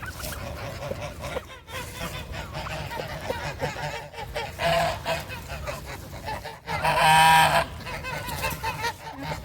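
Domestic geese honking among a flock of poultry: a short honk about halfway through and a louder, longer one a couple of seconds later, over a steady background of other bird calls.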